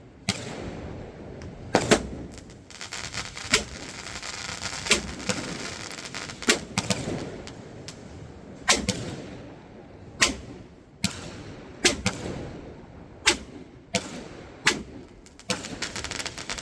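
A 16-shot consumer firework cake (Dragon Fireworks' Cove of Dreams) firing its shots in sequence: about a dozen sharp bangs, roughly one every second and a half, with a hiss between them.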